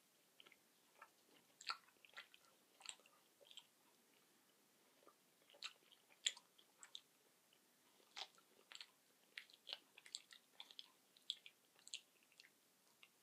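Faint close-up chewing of a chewy toffee-centred chocolate, with irregular sharp wet clicks of the mouth and teeth.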